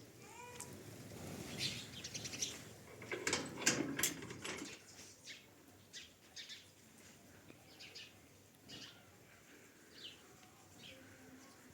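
Birds chirping in many short, high calls, busiest and loudest in the first five seconds and sparser after that.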